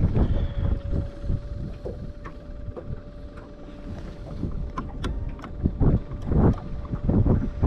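Wind buffeting the microphone in low gusts, strongest near the end, with a faint steady hum and scattered small clicks and knocks.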